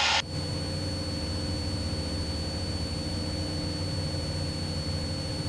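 Cessna 172's piston engine and propeller droning steadily at reduced power in level flight, heard inside the cockpit, with a thin steady high-pitched whine over it.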